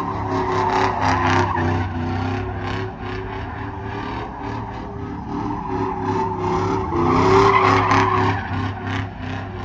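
Truck doing a burnout: engine held at high revs while the rear tyres spin and squeal against the pavement. It swells louder about a second in and again near the end.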